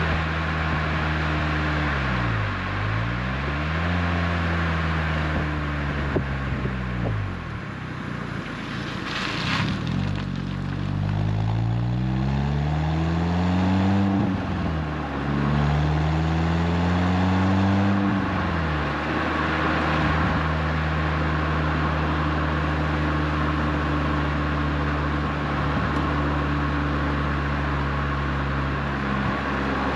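Renault Twingo RS Gordini's 1.6-litre four-cylinder engine through an Inoxcar 80mm stainless steel exhaust, under relaxed driving. The revs fall and rise several times over the first twenty seconds, with a short hiss about nine seconds in, then hold steady at cruising speed.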